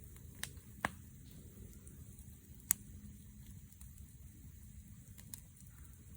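Wood fire burning, with a few sharp crackling pops at irregular intervals over a low steady background noise.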